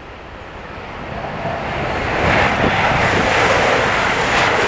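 CrossCountry diesel passenger train passing at speed, a rushing noise of wheels and running gear. It builds over the first two seconds and stays loud while the coaches go by.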